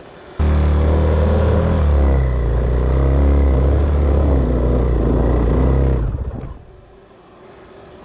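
Dirt bike engine bursts into life, runs and revs unevenly for about five and a half seconds, then stops.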